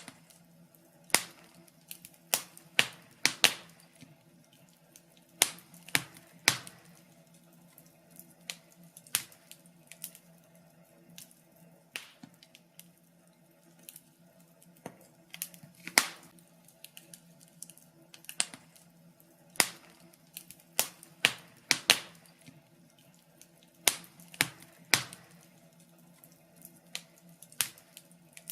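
Fire in a fireplace crackling, with irregular sharp pops that sometimes come in quick clusters and some loud single snaps. A faint steady hum lies beneath.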